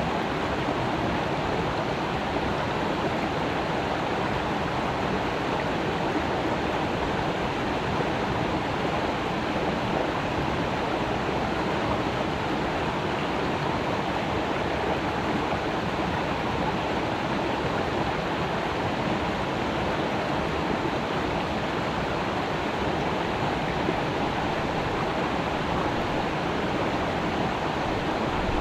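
Creek water rushing and babbling in a steady, even flow.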